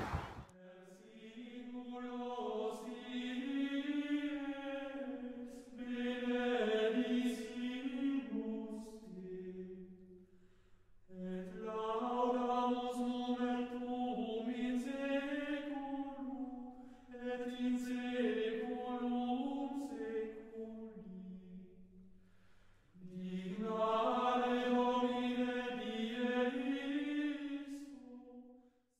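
Background music: voices singing chant in unison, a single slow melodic line in three long phrases with short pauses between them.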